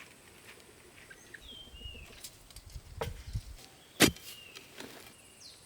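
Short whistled bird calls, some gliding down, over faint rural background, with a few sharp knocks, the loudest about four seconds in.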